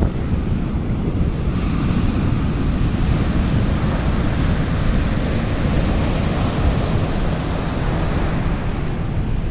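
Gentle sea waves washing up a beach, the hiss of the wash swelling through the middle and fading near the end, over a steady low rumble of wind on the microphone.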